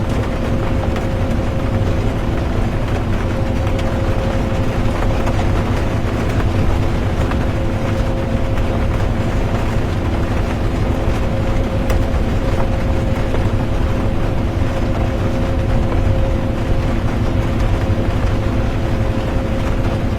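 Interior of a moving bus: a steady low rumble of engine and road noise with a constant drivetrain hum, under an even hiss of rain. Nothing changes; it runs on evenly.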